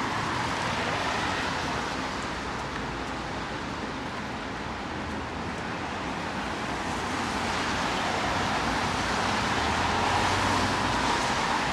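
Steady city road-traffic noise, growing louder in the second half as a vehicle draws near.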